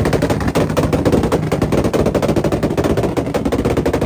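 A car engine held at its rev limiter, its exhaust firing a rapid, continuous string of bangs like a machine gun: the popping of a launch or anti-lag limiter that shoots flames from the exhaust.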